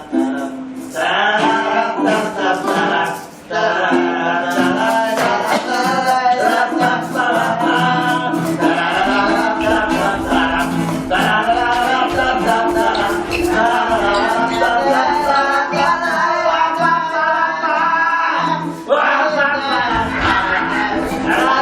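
A song: a male voice sings over steady instrumental accompaniment.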